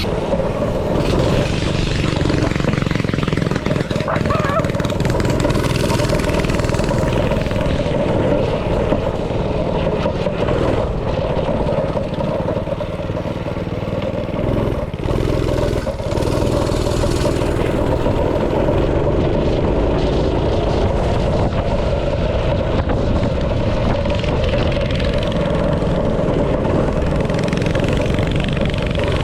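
Small single-cylinder engine running steadily under throttle as the machine is ridden, with small rises and dips in engine speed.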